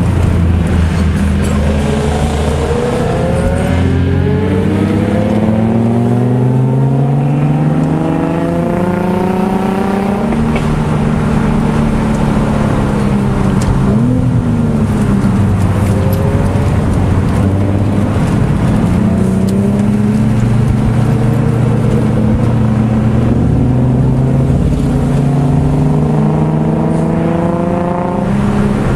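Car engines heard from inside a moving car's cabin, several engine notes at once rising and falling in pitch as the cars ease off and speed up again through a run of bends.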